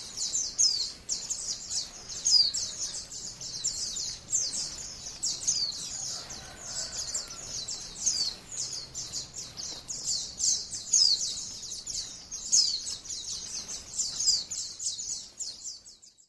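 White-eye (pleci, Zosterops) song: a fast, unbroken stream of high chirps and sweeping trills that cuts off suddenly near the end.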